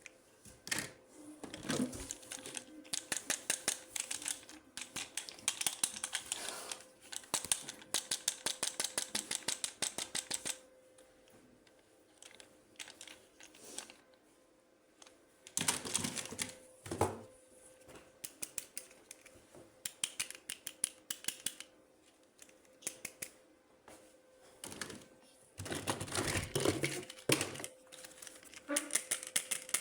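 Plastic toys and packaging being handled up close, with fast runs of sharp clicks, about ten a second, and a few louder knocks.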